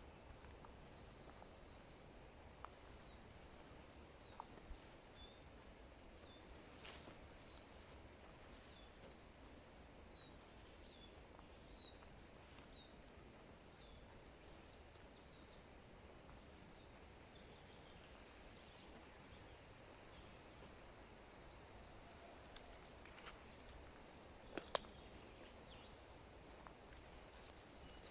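Faint forest ambience: a small bird gives short high chirps now and then through the first half, over a soft steady background hiss. A few sharp clicks stand out, the loudest near the end.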